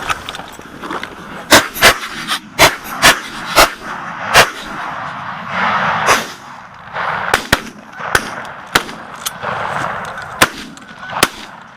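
A volley of shotgun fire from several hunters at a flock of Canada geese: about a dozen shots, six loud ones in quick succession in the first few seconds, then lighter, more spaced shots. Canada geese honk as the flock flushes under the fire.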